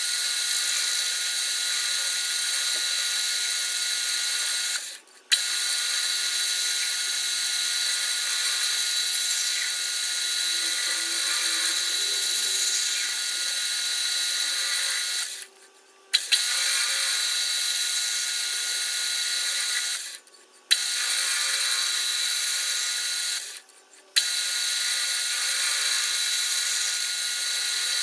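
A motor-driven machine running steadily with a high whine over a gritty mechanical noise. It cuts out four times and starts again each time with a sharp click.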